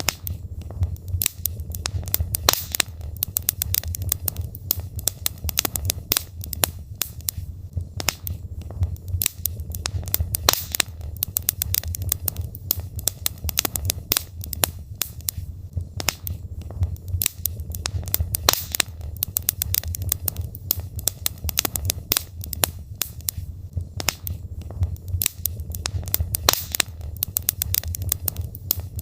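Wood fire burning in a fireplace: a steady low rumble of flames with frequent sharp crackles and pops from the burning logs, scattered irregularly.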